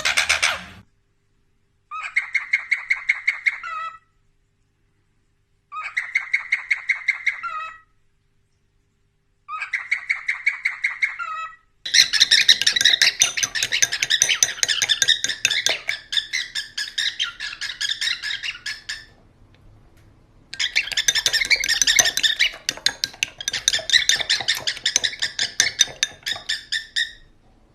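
Pet parrot chattering in quick, repeated chirps: three separate bursts of about two seconds each, then longer, denser stretches of chirping and squawking with a short break about two-thirds of the way through.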